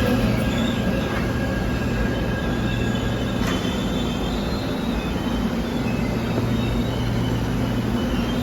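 Korail Line 1 electric commuter train pulling out of a station: a steady low rumble and hum with faint thin high tones above it, and a single light click partway through.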